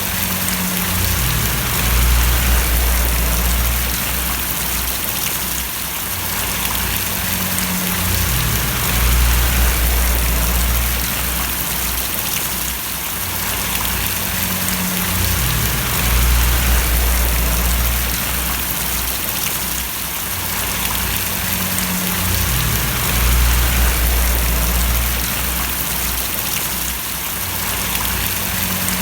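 Steady rain splashing and pattering in an even hiss, with a low rumble underneath that swells and shifts in a pattern repeating about every seven seconds.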